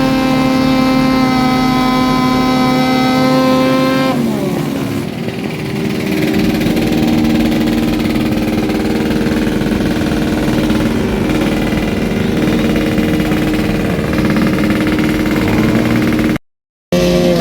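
Motorcycle engine held at steady high revs, then dropping back after about four seconds and running on at a lower, steady speed. The sound cuts out briefly near the end.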